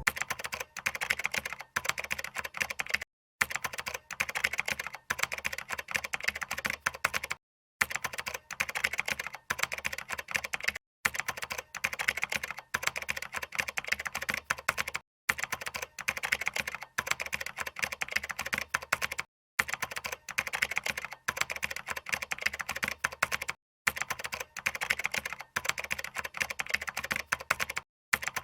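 Rapid computer keyboard typing, a dense run of key clicks that breaks off for a moment about every four seconds.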